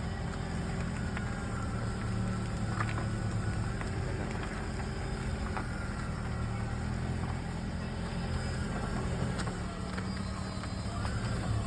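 Toyota Prius rolling slowly with a steady low hum and a faint rubbing squeal from a wheel that comes and goes every few seconds. The squeal is the sign of a bent brake dust shield rubbing on the rotor.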